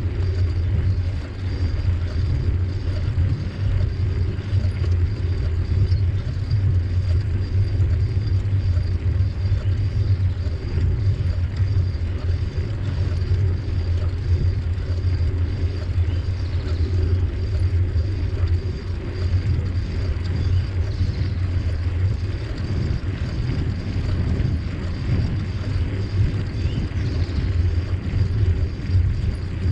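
Steady low rumble of a bicycle ride: wind buffeting the microphone and tyres rolling over the trail.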